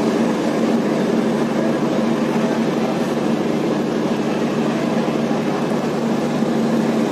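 AC double-decker passenger train running: a steady, unbroken rumble with a constant low hum.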